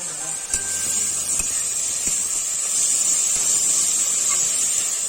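Oil sizzling steadily in a kadai as food fries, with a few light taps in the first couple of seconds.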